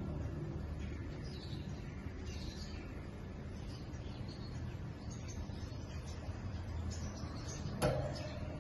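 Faint, scattered parrot chirps over a steady background rumble, with one sharp click near the end.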